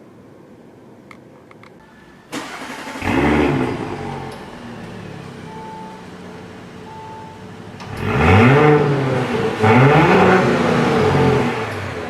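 Audi SQ5's 3.0-litre turbocharged V6 starting about two seconds in with a quick flare of revs, settling to idle, then revved twice near the end, each rev rising and falling in pitch.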